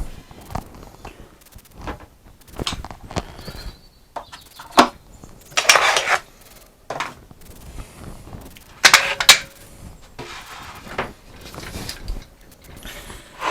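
Metal woodworking clamps being handled and fitted: irregular metallic clanks, knocks and scrapes, two of them sharp and loud.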